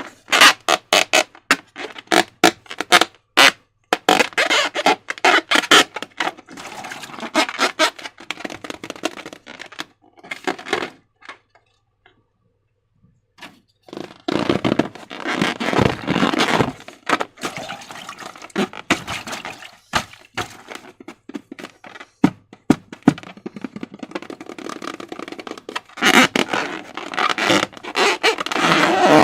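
Slime being squished and worked by hand, with dense runs of sticky, wet clicks and crackles. There is a short pause about halfway through.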